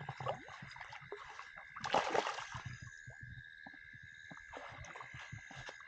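Water splashing and sloshing around a freshly hooked catfish, with scattered small clicks and one louder splash about two seconds in.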